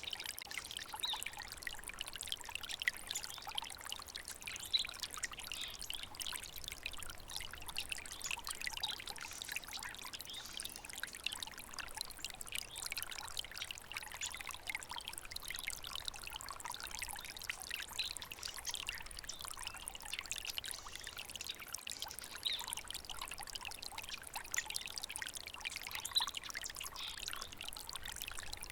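Water stream trickling and burbling steadily.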